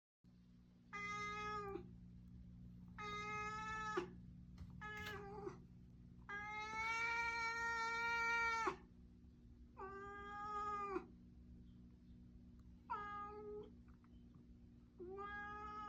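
A cat yowling in threat: a series of about seven drawn-out, steady-pitched calls, the longest lasting over two seconds, over a steady low hum.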